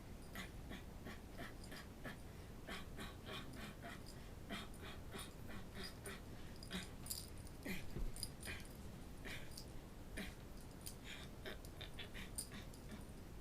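A pet cat breathing fast after play-fighting, short breathy puffs about three a second, faint.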